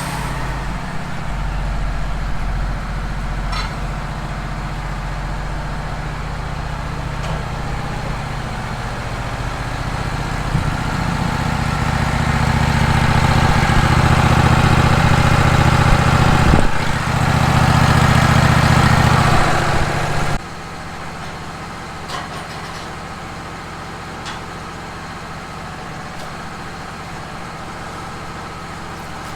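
Wood-Mizer LT15 sawmill running steadily, growing louder and rougher through the middle, then dropping suddenly to a quieter steady run about twenty seconds in.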